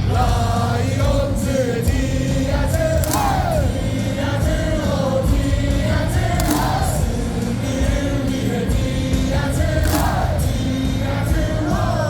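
Baseball stadium crowd singing a cheer song in unison over loud amplified music with heavy bass.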